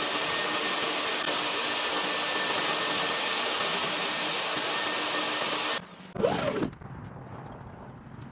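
Steady rush of air from a motor-driven vacuum or blower used in dryer-vent cleaning. It cuts off suddenly about six seconds in, and a brief louder sound with a sliding pitch follows.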